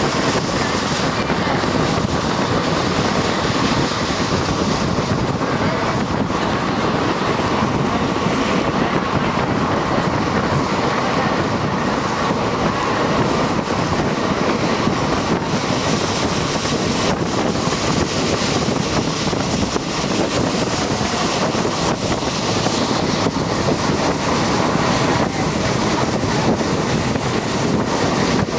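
A moving train: a steady loud rumble of wheels running on the rails, with a faint click now and then from the track.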